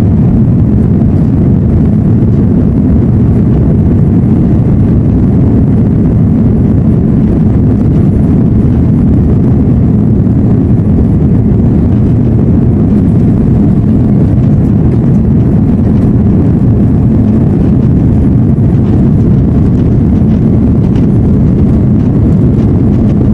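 Cabin noise inside an Airbus A330-343 airliner: a loud, steady, low rumble from its Rolls-Royce engines and the airflow, with no change in pitch.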